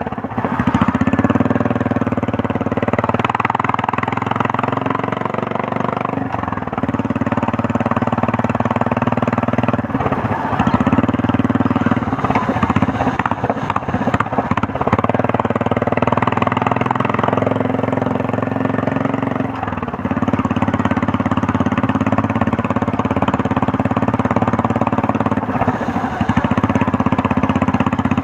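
Royal Enfield Meteor 350's single-cylinder engine and exhaust running under way, a sound its rider likens to a helicopter. The engine note dips briefly several times as the throttle eases and picks up again.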